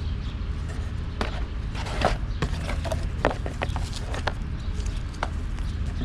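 Irregular sharp clicks and knocks, the loudest about two and three seconds in, over a steady low rumble.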